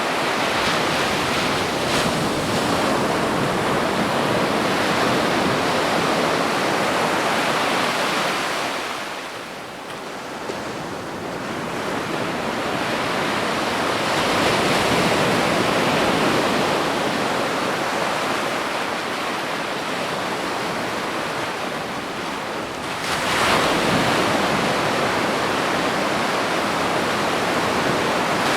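Ocean surf washing onto a beach: a continuous rush of water that eases off about a third of the way through, builds again, and swells with a sudden surge as a wave breaks toward the end.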